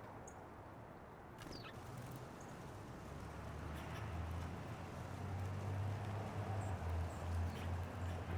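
A few faint, brief calls and chips from small birds at a feeder, one with a downward slide, over a low rumble that grows louder in the second half.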